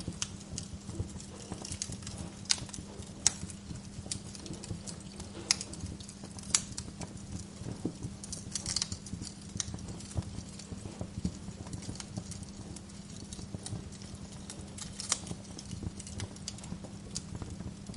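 Wood fire crackling, with irregular sharp pops and snaps, a few of them much louder than the rest, over a steady low rumble.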